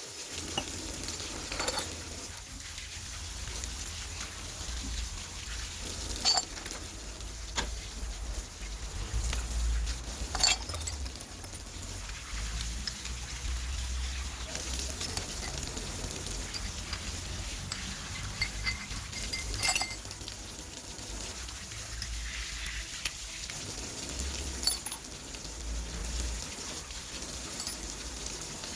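Scattered clinks and knocks of metal parts and tools being handled, a handful of sharp ones standing out (the loudest about ten seconds in), over a low steady rumble.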